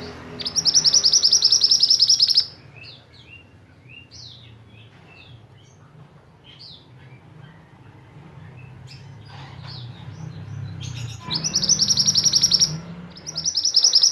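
White-eye (pleci) song in its rapid-fire 'tembakan' style: three loud, fast, buzzy trills of about two seconds each, one at the start and two near the end, with scattered short chirps between them over a faint low hum.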